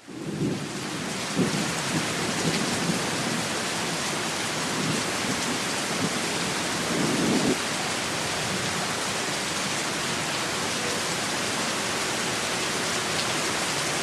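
Steady heavy rain with low rumbles of thunder coming and going, the loudest about seven seconds in.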